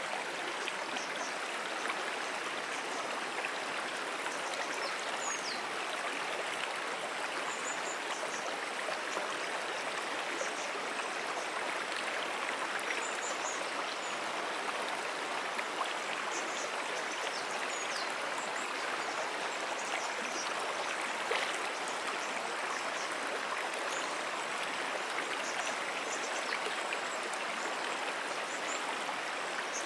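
A flowing freshwater brook: a steady, even rush of running water.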